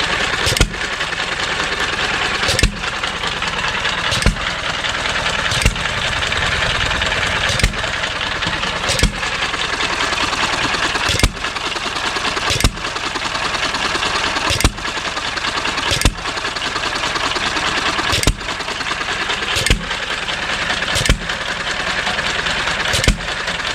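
1½ hp John Deere hit-and-miss stationary engine running: a sharp firing bang every one and a half to two seconds, about fourteen in all, with a steady mechanical running noise between firings as the flywheel carries it. It is running well.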